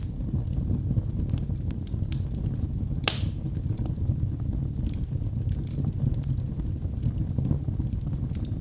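Wood fire burning in a fireplace: a steady low rumble of flames with frequent small crackles and pops, and one sharp loud snap about three seconds in.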